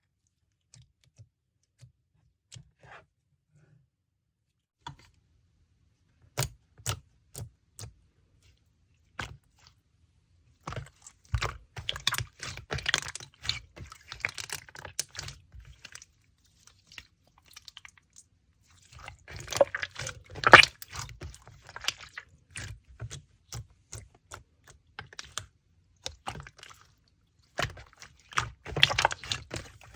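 Slime being worked by hand, close up, making crackling clicks and small pops. The clicks come singly at first, then in dense spells of a few seconds each.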